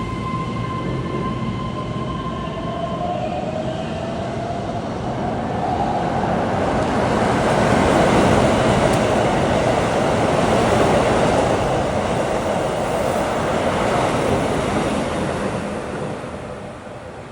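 A Keihan electric train runs past close by. Its wheels and rails build to a loud, broad noise that peaks midway and fades away near the end. Early on a steady high tone stops about 3 seconds in, and a rising motor whine follows.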